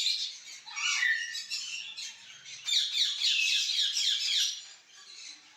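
Parrots squawking and chattering, with a quick run of short falling calls in the middle before they quieten near the end.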